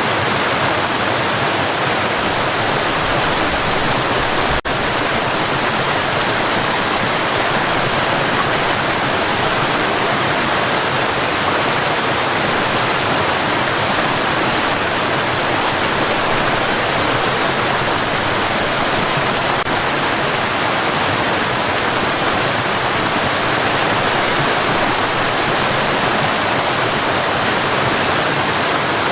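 Steady, unbroken white noise for sleep: an even rushing hiss with no pitch or rhythm, broken only by a momentary dip about four and a half seconds in.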